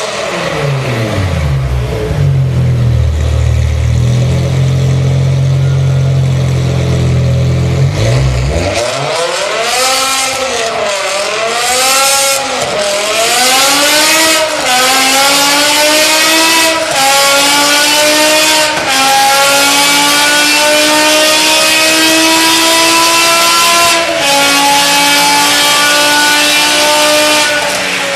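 BMW M5 engine through an Armytrix aftermarket exhaust: a steady deep rumble, then a few quick revs. The car then accelerates hard through several gears, the pitch climbing in each gear and dropping at each upshift, four times, before easing off near the end.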